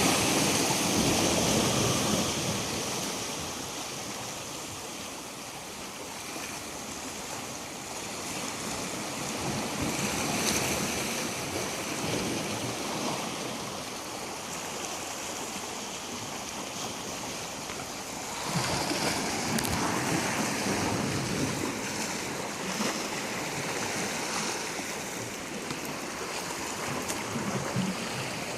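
Sea waves washing up onto the shore, the surf noise swelling and easing, rising sharply a little over two-thirds of the way in.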